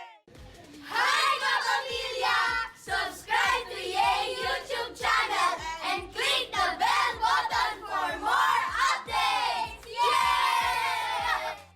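A group of children shouting and squealing excitedly over one another, ending in a long drawn-out shout that falls in pitch.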